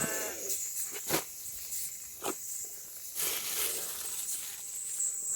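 A cow or buffalo's call trails off at the very start. Then come a few sharp knocks and some rustling, over a steady high-pitched insect buzz.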